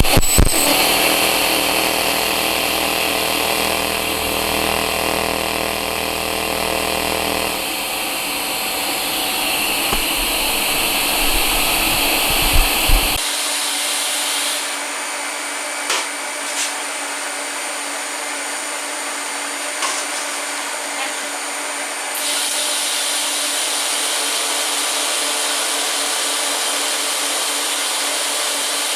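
TIG welding arc on stainless steel, pulsed at about 40 pulses a second: a steady buzz for the first several seconds, then a steady hiss with a few sharp clicks as the arc is struck and stopped for tacks.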